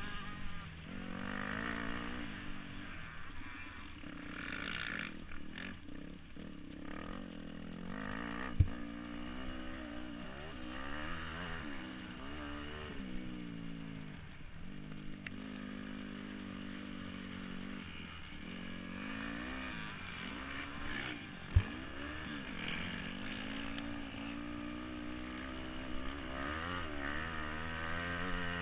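Several motocross bikes running on a dirt track, their engines revving up and down as they accelerate and back off, one engine over another. Two sharp knocks stand out, about nine seconds in and again about twenty-two seconds in.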